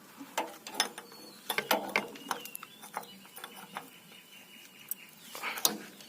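Spanner working a tight nut on a Mahindra 575 DI tractor's diesel feed pump loose: irregular metallic clicks and knocks, with a faint thin squeal through the middle.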